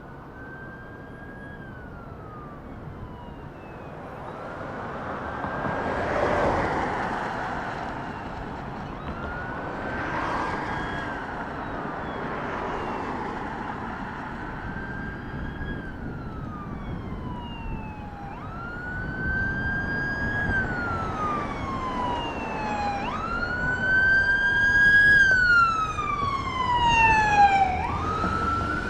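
Fire apparatus siren on wail, sweeping up and then falling slowly in cycles of about four to five seconds, growing steadily louder as the rig approaches. A swell of road noise peaks about six seconds in.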